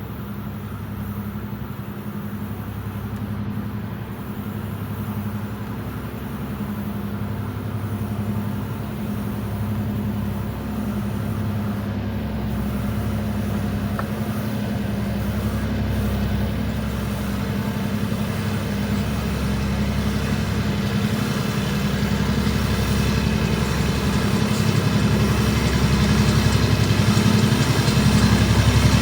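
EMD MP15AC diesel switcher locomotives working in Notch 8, full throttle, with a steady low engine drone that grows slowly louder as the train approaches.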